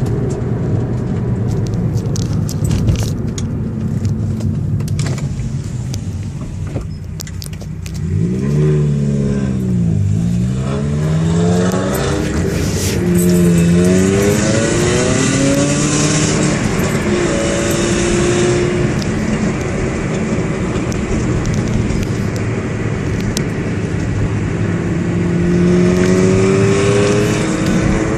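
Ferrari 308 GTB V8 running through its exhaust: idling with some clicks and rattles for the first several seconds, then revved up and let fall back twice, held at a higher note for a few seconds, and rising again near the end.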